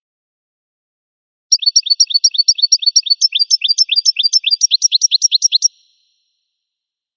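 A finch singing a fast trill of repeated rising notes, about eight a second, lasting about four seconds; partway through the notes drop lower into longer upward sweeps, and the phrase stops abruptly.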